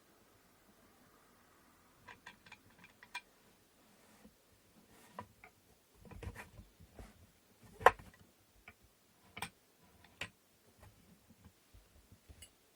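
Wooden inkle loom parts being handled and fitted together: scattered light clicks and knocks, with the sharpest knock about eight seconds in.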